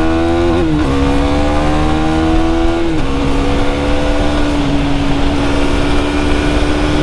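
KTM Duke 390's single-cylinder engine pulling under acceleration, its pitch climbing and then dropping sharply at two upshifts about a second and three seconds in, after which it holds a steady note at cruise. Wind rushes on the helmet microphone throughout.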